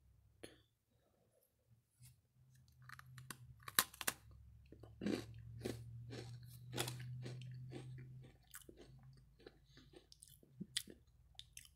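A person biting into a Java Chip Oreo sandwich cookie and chewing it, with irregular crisp crunches, and a low hum underneath for a few seconds in the middle.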